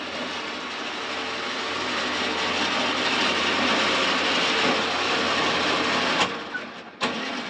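Tow truck's powered hook lift running steadily under load as it raises a dirt bike, growing louder. It stops abruptly with a click about six seconds in, and a short knock follows about a second later.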